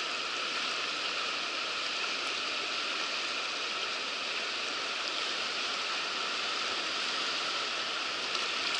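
River current rushing, a steady, unbroken water noise.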